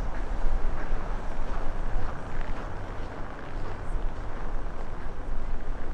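Strong wind buffeting the microphone in a snowstorm: a rough, heavy low rumble that surges and drops unevenly.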